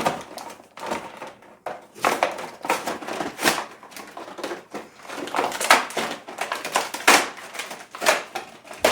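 Toy packaging being ripped open in a hurry by hand: a steady run of crinkling and tearing of cardboard and plastic in irregular bursts.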